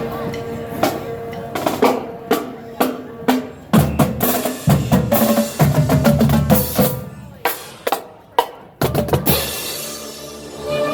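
Marching band playing, led by the drumline: sharp snare and bass drum hits and rolls, with sustained low band chords in the middle.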